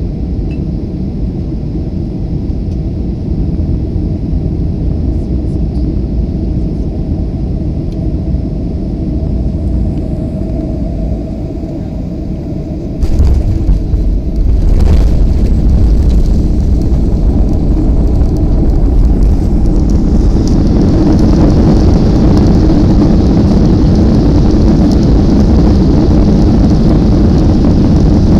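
Airliner cabin noise on landing: a steady rumble, then touchdown about 13 s in, where the level jumps with a couple of thumps as the wheels meet the runway. A louder rumble of the roll-out follows, and the engine noise swells with added hiss a few seconds later.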